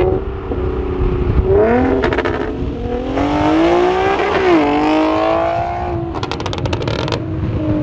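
Infiniti G sedan's V6 engine accelerating under load, its pitch climbing with the revs, dropping sharply once about four and a half seconds in at an upshift, then holding steady. A quick run of clicks or crackles comes near the end.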